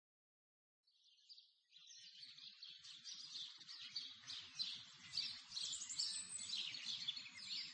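Birds chirping: a dense chorus of many short, high calls that fades in after about a second and a half of silence and grows gradually louder.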